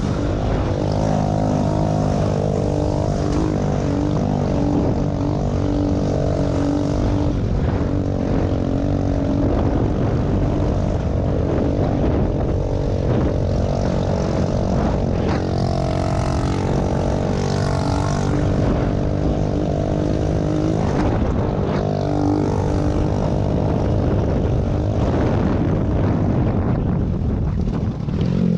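Small pit bike engines running hard, their revs rising and falling with the throttle, over a steady low rumble.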